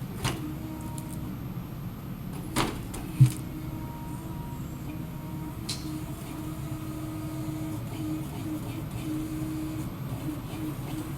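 Small excavator-based forestry harvester running steadily, its engine and hydraulics droning with a held tone, broken by a few sharp knocks in the first few seconds, the loudest about three seconds in.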